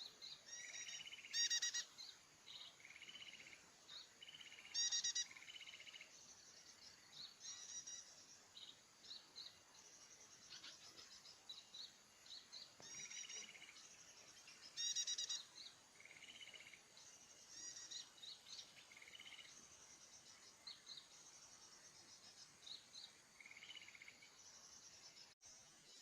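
Small birds chirping and calling in short, high, repeated phrases, with three louder trills about a second and a half in, about five seconds in, and about halfway through.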